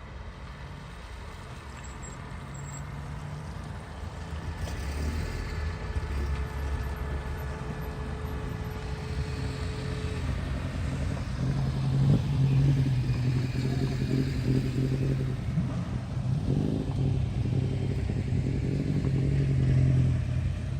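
A vehicle engine running and growing louder over the first dozen seconds or so as it comes closer, then running steadily close by with a low engine note.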